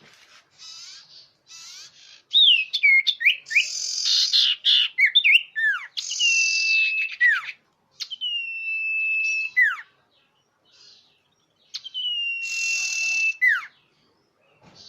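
Common iora (cipoh) calls played as a bird lure: rapid high chattering with short downward-slurred whistles, then three long level whistles, each held about a second and ending in a sharp downward drop, with short pauses between them.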